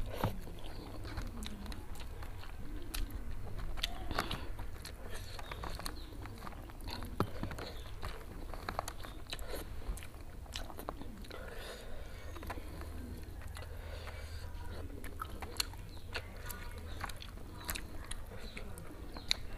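Close-miked chewing of spicy fried instant noodles and chicken eaten by hand: wet smacking and mouth clicks with occasional crunches, over a low steady hum.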